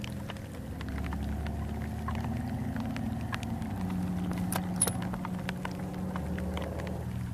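Heavy rain pattering as a steady scatter of small ticks, over a steady low hum. One sharper tick stands out about five seconds in.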